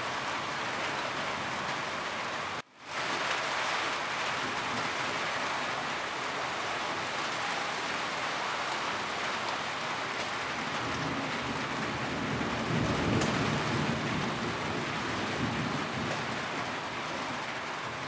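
Steady rain falling on a roof, an even hiss of drops, with a low rumble swelling about two-thirds of the way through. The sound cuts out for a split second about three seconds in.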